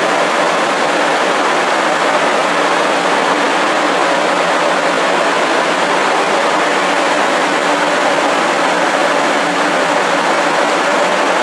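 Steady, unbroken running noise of a JR West 500 series Shinkansen standing at the platform, a rushing whir with a faint hum.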